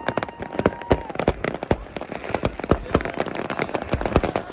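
Many fireworks and firecrackers going off at once: a dense, irregular run of bangs and pops, with a whistling tone in the first second or so.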